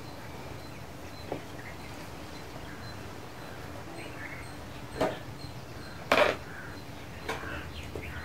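Early-morning bird ambience: faint chirps of small birds over a steady outdoor hush, with two short harsh crow caws about five and six seconds in, the second the loudest.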